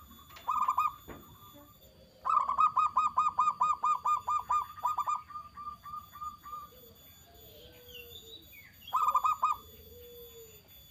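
Zebra dove (perkutut) calling: a short burst, then a long run of rapid, evenly repeated short notes at about six a second that fades off, and one more short burst near the end. Softer low coo notes fall in the gaps.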